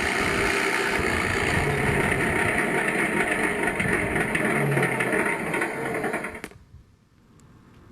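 Simulated Rolls-Royce Merlin aero-engine sound from an RC P-51 Mustang's MrRcSound sound card, played through two transducers on the model's fuselage, running steadily and then falling away and stopping about six and a half seconds in.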